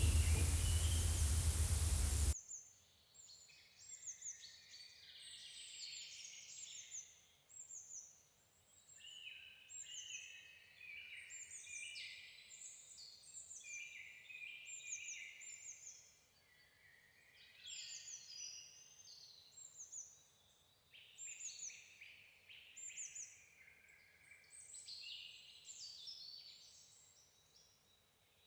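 Songbirds singing in a dense chorus of quick, overlapping phrases made of short notes that sweep downward. For about the first two seconds a loud steady rushing noise lies over it, then cuts off suddenly.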